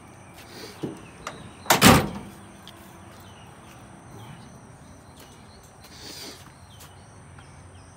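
A couple of light knocks, then one loud sharp bang about two seconds in, with a brief soft rustle around six seconds. Faint short high chirps repeat throughout.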